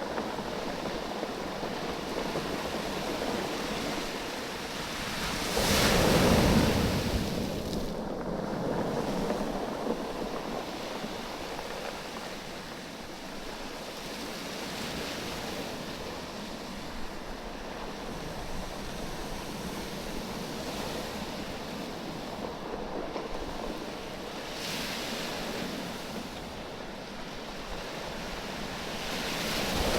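Waves washing up and back over a bank of rounded, oval beach stones, which roll and knock against each other as the water ebbs and flows. One wave comes in loudly about six seconds in, and another swells near the end.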